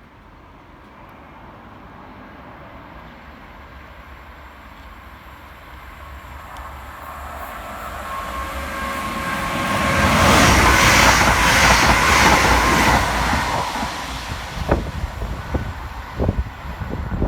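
Scotrail Class 380 Desiro electric multiple unit passing fast through a station. Its rush builds over several seconds to a loud peak about ten seconds in, then fades, with a run of sharp wheel clicks near the end.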